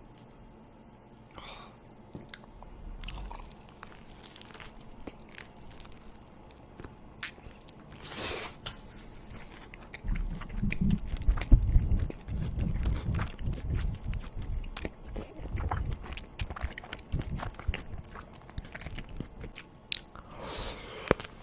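A person eating close to the microphone: biting and chewing food, with small mouth and utensil clicks. About halfway through the chewing becomes louder and denser.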